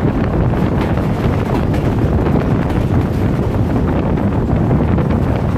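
Passenger train running at speed, heard from on board: a steady rumble of wheels on the rails, with wind buffeting the microphone.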